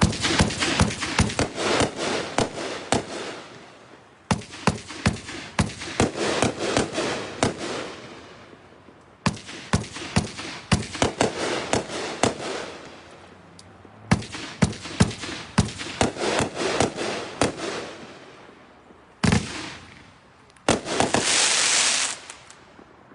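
The 20-shot Star Child consumer fireworks cake firing in four volleys, each a run of rapid sharp bangs and pops that fades out. Near the end comes a short loud burst, then a dense rush of noise about two seconds long.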